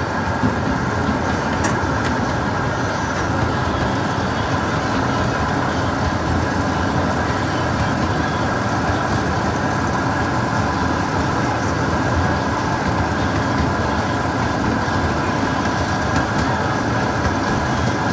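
Steady running noise of a miniature zoo train, heard from one of its open passenger cars as it rolls along the track.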